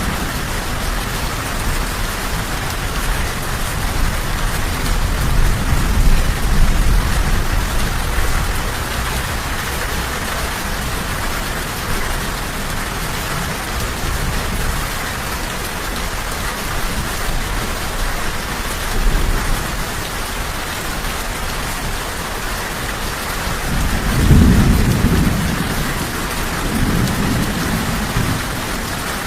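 Steady, heavy rain hissing throughout, with low rolling thunder: a rumble a few seconds in and a louder one near the end.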